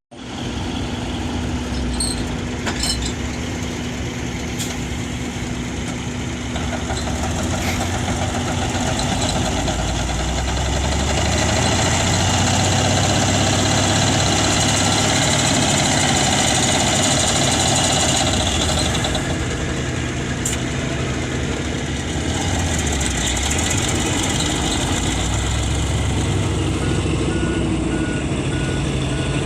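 Heavy diesel dump truck engine running, getting louder about ten seconds in and easing off again near twenty seconds.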